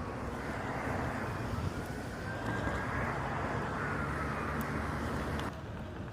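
Steady road traffic noise with a faint emergency-vehicle siren slowly rising and falling in pitch. The sound drops quieter about five and a half seconds in.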